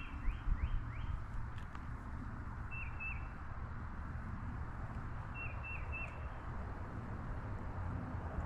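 A bird calling: short high chirps in twos and threes, a few seconds apart, over a steady low rumble.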